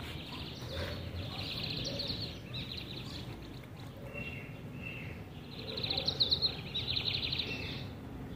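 Small birds singing: rapid high trills about a second in and again from about five and a half seconds, with short whistled notes between, over a steady low background hum.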